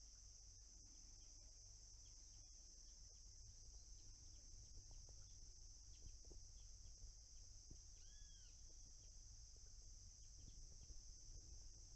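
Faint dawn nature ambience: crickets keep up a steady high drone, and birds add scattered short chirps. About eight seconds in, one bird gives a single arched call.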